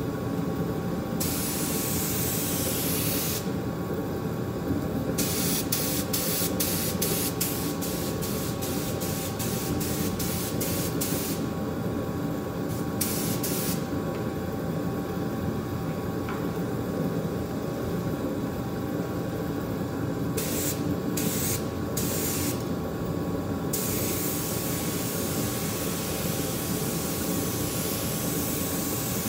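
Compressed-air spraying hissing in on-off bursts: a couple of long sprays, a run of quick short blasts a few times a second, and another long spray near the end, over a steady machine hum.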